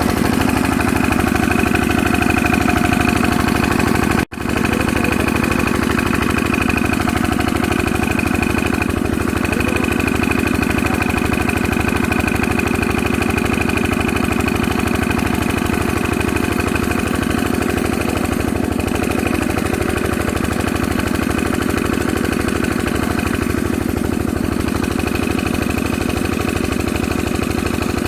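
Diesel engine driving a water pump, running steadily. The sound cuts out for an instant about four seconds in.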